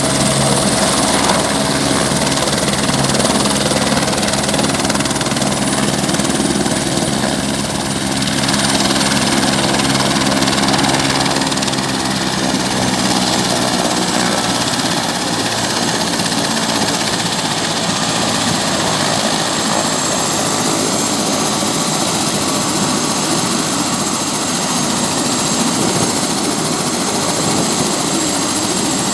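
Helicopter on landing approach, its rotor and turbine engine running loud and steady with a high turbine whine; the low rotor tones fade about halfway through.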